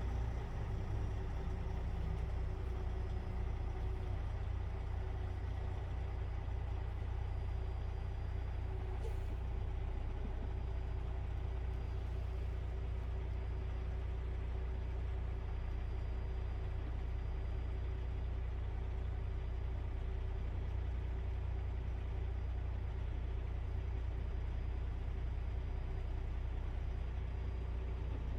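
Gravel truck's diesel engine running steadily, heard from the cab as a low, even drone with a steady hum above it.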